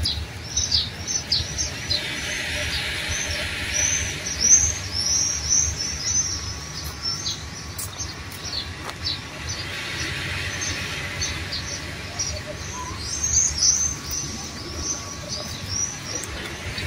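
Small birds chirping over and over: short, high notes that slide downward, a few a second.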